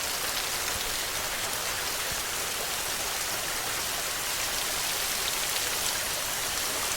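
Steady rain falling: an even hiss with faint scattered drop ticks, unchanging in level.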